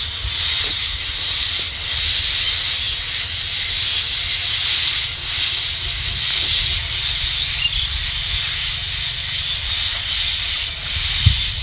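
A steady high-pitched hiss with a low rumble underneath, unchanging throughout.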